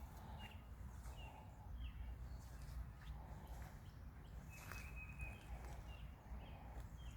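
Short, high bird chirps repeated every second or so, faint, over a steady low rumble.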